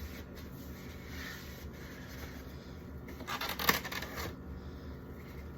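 Small drink containers being moved on a refrigerator shelf: a brief burst of scraping and rattling with one sharp clink about three and a half seconds in.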